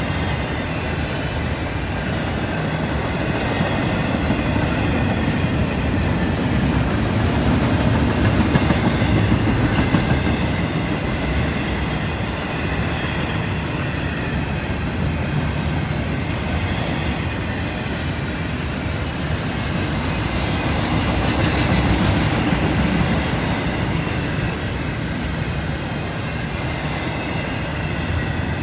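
CSX intermodal freight train rolling past: a steady rumble of steel wheels on the rails with clickety-clack. It swells in loudness twice.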